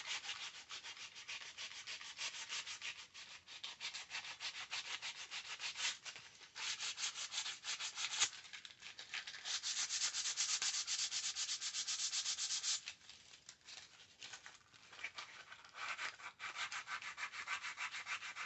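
Sandpaper rubbed by hand in quick, even back-and-forth strokes over a JB Weld crack repair on a headlight trim, smoothing the filler flat before painting. The strokes get louder about ten seconds in and nearly stop for a moment a few seconds later.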